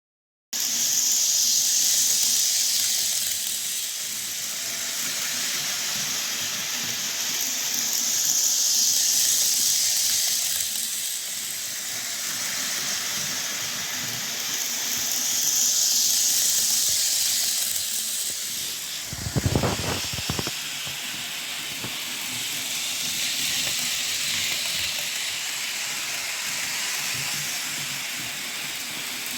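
Piko TT-scale ICE model train running on its track: a steady high whirring hiss of wheels and motor that swells and fades about every seven seconds. There is one brief low thump about two-thirds of the way through.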